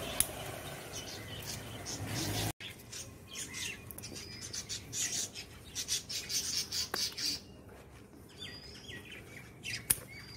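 A sharp snip of scissors cutting a brinjal stem at the very start, with leaves rustling. After about two and a half seconds, small birds chirping in many short, high notes.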